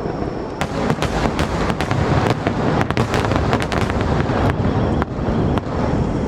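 Fireworks bursting: a rapid, irregular series of sharp bangs and crackles over a continuous heavy rumble.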